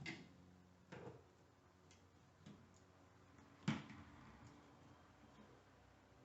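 Near silence broken by a few faint clicks and knocks, the loudest about three and a half seconds in: hands and tools handling the water heater's filter plug as it is unscrewed.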